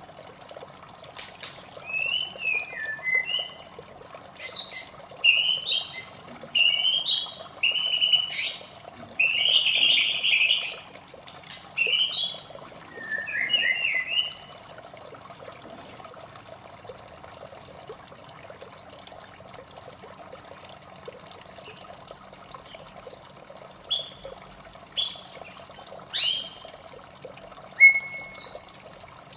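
White-rumped shama singing a run of varied whistled phrases for the first half, then after a pause a few short, sharp notes near the end, over a steady trickle of running water.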